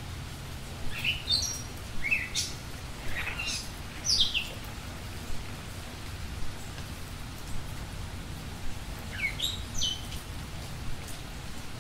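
A small bird chirping: short notes that slide downward in pitch, in a cluster over the first few seconds and again near the end, over a steady low background noise.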